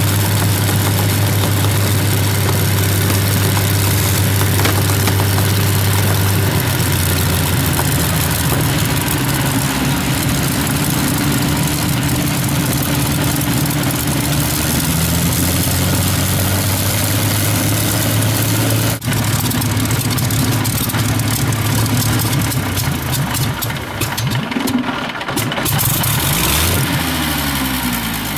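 Spitfire's Rolls-Royce V12 aero engine running loud on a ground run-up, holding steady revs that shift in steps. Near the end the pitch falls as the engine is throttled back.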